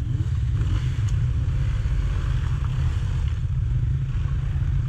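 Rieju Marathon Pro 125's single-cylinder four-stroke engine running steadily as the dirt bike is ridden along a trail, with a heavy low rumble.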